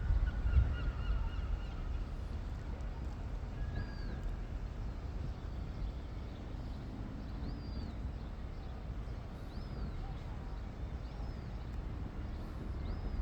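Gull chick peeping: short, thin, high calls that rise and fall, repeated about every couple of seconds over a steady low rumble.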